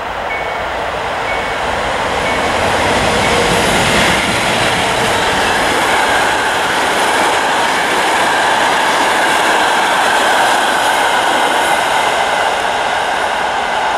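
Train of passenger coaches rolling past at speed: a steady rumble of wheels on the rails that swells over the first few seconds and then holds.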